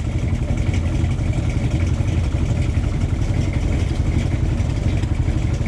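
Chevy Cheyenne pickup's 454 big-block V8 idling: a steady low rumble.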